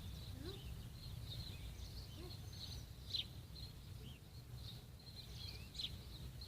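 Small birds chirping and twittering throughout, with a few louder chirps about three and six seconds in, over a steady low rumble.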